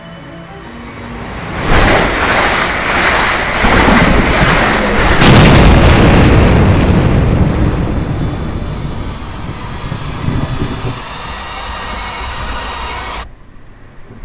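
Loud, deep rumbling noise with booms. It swells in about two seconds in, is loudest around the middle, then eases off and cuts off suddenly near the end.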